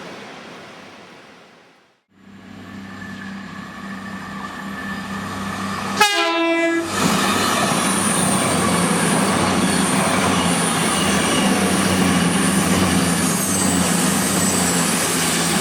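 A train approaching and growing louder, with a steady engine hum. About six seconds in it sounds its horn once, briefly. It then passes close, with loud, steady running and wheel noise on the rails and a high whine above it.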